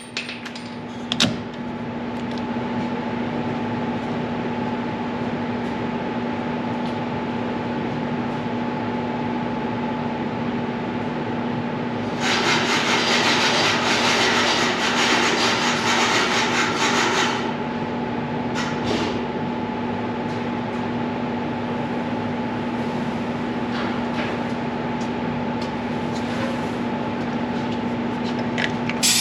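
Steady machine hum with a low and a higher constant tone, and a loud hissing burst from about twelve to seventeen seconds in.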